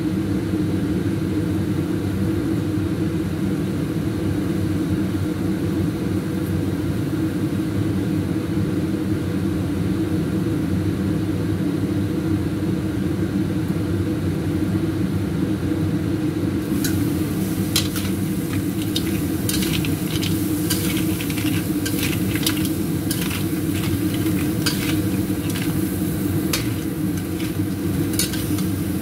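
A steady low hum while the wok is covered, then from a little past halfway crabs frying in the open wok sizzle and crackle, with a metal spatula clicking and scraping against the wok as they are stirred.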